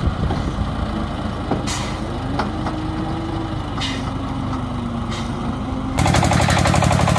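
Diesel engine of a two-wheel walking tractor running, with three short hisses in the middle. About six seconds in, the sound jumps to a louder, fast, even chugging of a single engine heard close up.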